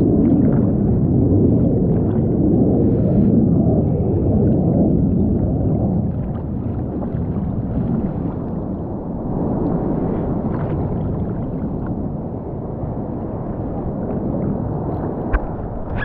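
Low rumble of a jet aircraft flying by, with a wavering moan in it that was likened to a whale; loudest for the first six seconds, then easing off.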